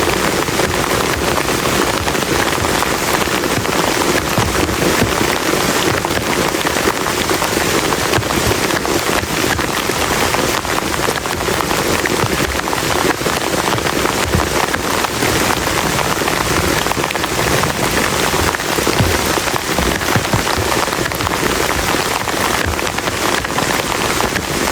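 Heavy rain falling steadily, a dense patter of drops on a plastic tarp.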